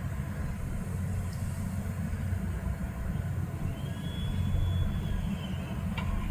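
Steady low vehicle rumble, with a faint thin high squeal lasting about a second and a half from about four seconds in and a sharp click near the end.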